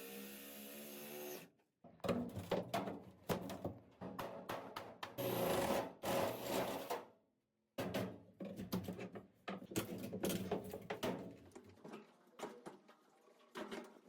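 A steady hum for the first second and a half, then wood being cut and worked with tools: dense, rapid scraping and clattering. Two abrupt breaks interrupt it.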